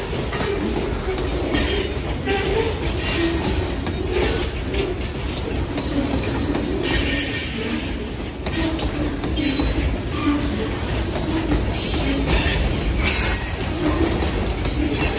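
Freight cars, steel hoppers and covered hoppers, rolling past on steel wheels: a steady low rumble of wheels on rail, broken by irregular clanks every second or two as the trucks pass.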